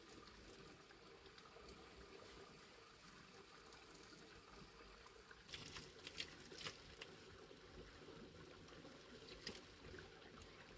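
Faint, steady patter of heavy rain, with a few sharp clicks bunched a little past halfway and one more near the end.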